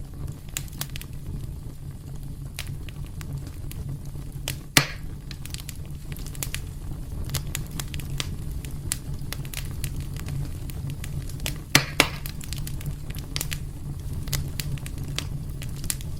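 Wood fire burning in a fireplace: a steady low rumble under frequent sharp crackles and snaps, with two louder pops, about five seconds in and again about twelve seconds in.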